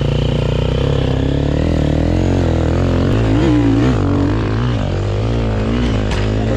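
Dirt bike engine running, its revs rising and falling.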